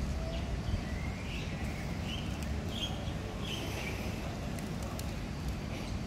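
A bird gives several short, high chirps over a steady low rumble.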